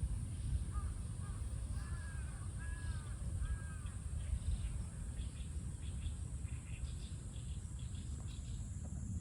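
A crow cawing, about four short arched calls between one and four seconds in, followed by faint small-bird chirps over a steady low background noise.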